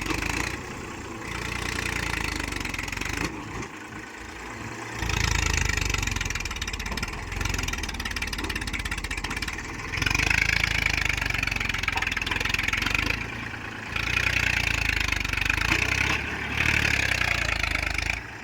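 Massey Ferguson 1035 DI tractor's three-cylinder diesel engine working hard under load, pulling a stuck trolley out of soft ground. It surges in repeated bursts of throttle of a few seconds each, with short dips in between.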